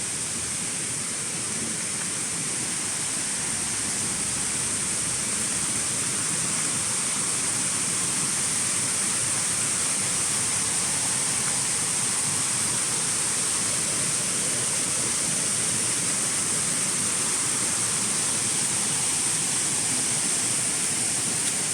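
Steady rushing of falling water, an even continuous hiss with a bright high edge to it, growing slightly louder over the first few seconds and then holding steady.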